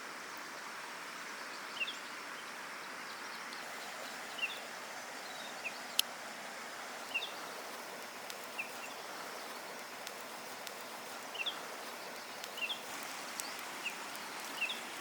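Outdoor ambience: a steady hiss with short high chirps every second or so, and one sharp crack about six seconds in.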